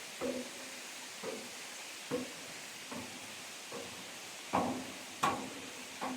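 Footsteps climbing steel stairs, a step about every 0.8 seconds, each footfall clanging on a metal tread with a short ring.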